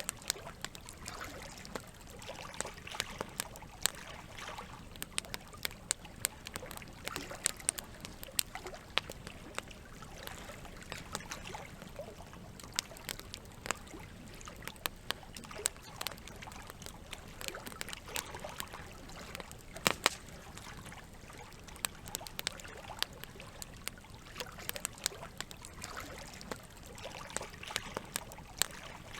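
Campfire crackling: burning wood snapping and popping at irregular moments, a few sharp pops standing out, over a steady wash of trickling water.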